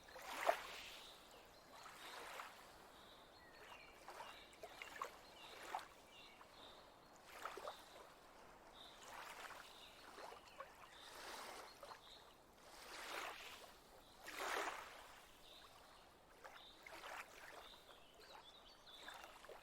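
Faint water gently lapping against a lakeshore: soft, uneven splashes every second or two.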